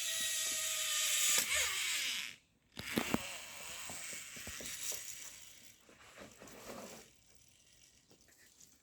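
Zipline trolley pulleys running along the steel cable as a rider comes in: a high, rattling whir whose pitch falls slightly. It breaks off suddenly about two and a half seconds in, then a fainter whir with a few clicks fades away over the next few seconds.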